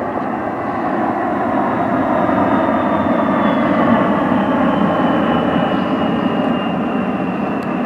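Aircraft engines passing overhead: a loud, steady rushing noise with a thin high whine that slowly falls in pitch.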